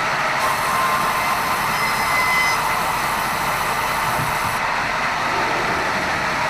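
Sawmill band saw running steadily while sawing red meranti: a dense, even machine noise with faint high whining tones.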